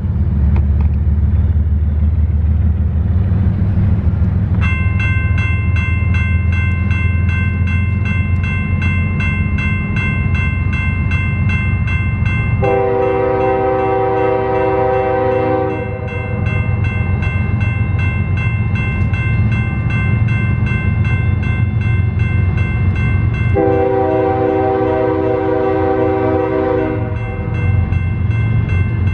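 Freight train with BNSF diesel locomotives passing close by, its engines making a heavy low rumble. A bell starts ringing rapidly about five seconds in and keeps on. The locomotive horn sounds two long blasts, about halfway through and again near the end.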